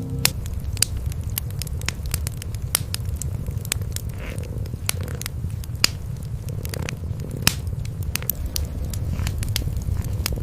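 Cats purring in a steady low rumble, with a wood fire crackling in sharp, irregular pops over it.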